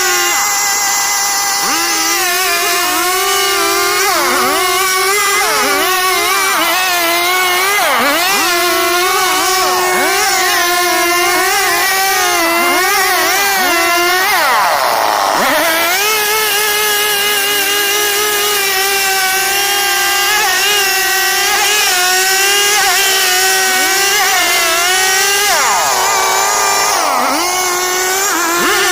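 STIHL two-stroke chainsaw running at high revs while cutting wood, its pitch dipping briefly every couple of seconds as the chain bites and bogs under load, then climbing back. The deepest dip comes about halfway through.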